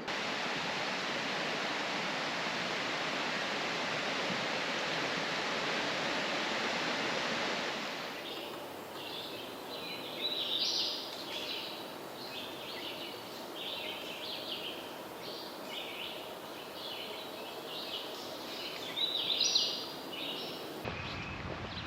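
Steady rush of falling water from a creek cascade for about eight seconds. It then changes abruptly to birds singing, a busy run of quick high chirps and trills over a faint hiss, loudest twice.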